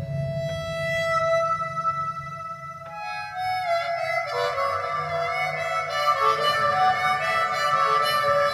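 Harmonica playing held notes and chords that change about once a second, over a low rumbling band.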